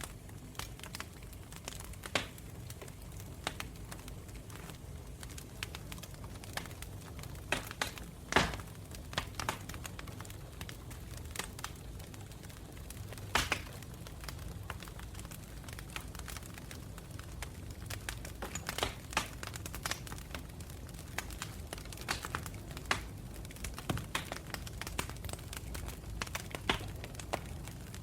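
Wood campfire burning, with a steady low rumble and irregular sharp crackles and pops throughout; the loudest pops come about a third and halfway in.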